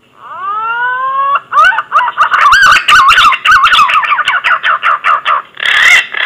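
Green pigeon (punai) song played as a hunting lure call: a whistle that glides upward for about a second, then a quick run of wavering, warbling whistles, ending with two harsher, louder notes.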